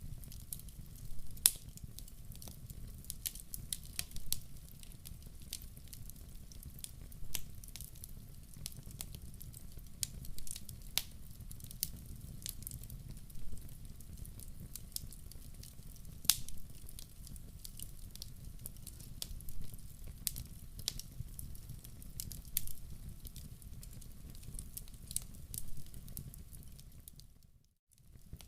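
Log fire in a wood-burning stove crackling: irregular sharp pops and snaps over a steady low rumble of burning. The sound cuts out for a moment near the end.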